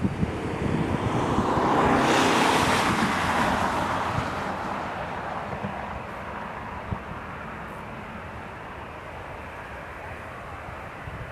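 Jet noise of a departing Boeing 777-300ER's GE90 engines at takeoff thrust, swelling to its loudest about two seconds in and then slowly fading as it moves away, with wind rumbling on the microphone.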